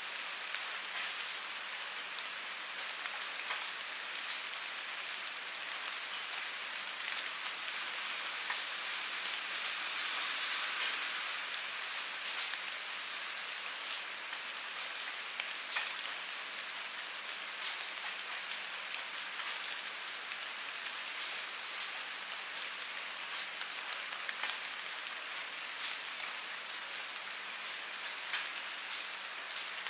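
Steady rainfall: an even hiss of rain with many sharp individual drop hits close by, briefly heavier about ten seconds in.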